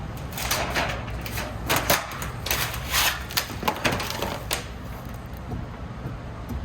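Irregular sharp clicks and clunks from hands and tools working on a car's front wheel hub, over a low steady hum.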